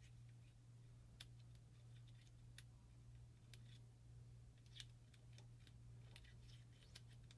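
Near silence over a steady low hum, with about six faint, sharp clicks spread through it: small metal parts and tools being handled during disassembly of an Angel LCD paintball marker.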